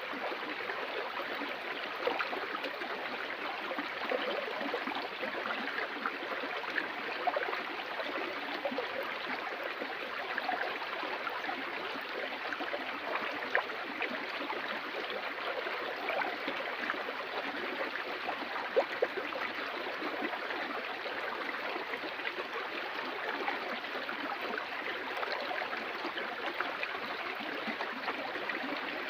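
Stream water flowing steadily, with small splashes and gurgles through the rush.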